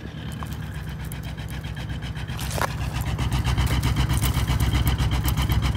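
2000 Mercury Grand Marquis 4.6-litre V8 idling just after a cold start in below-freezing weather, with an even pulsing beat that grows louder about halfway through. The idle doesn't sound right to the owner.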